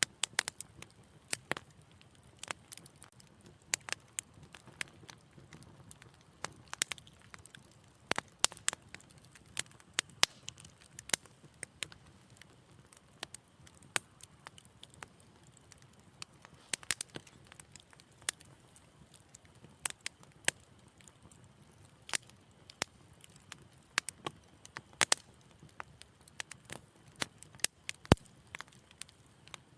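Wood fire crackling: irregular sharp pops and snaps at uneven intervals over a faint low hiss of the burning logs.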